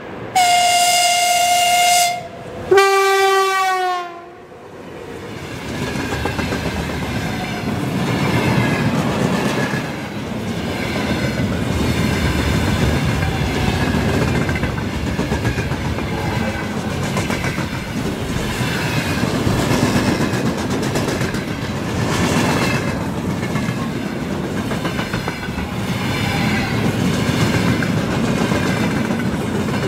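Train horn sounding two blasts, a higher note and then a lower note that sags in pitch at its end. A train then passes close by from about five seconds in, its wheels clattering steadily over the rail joints.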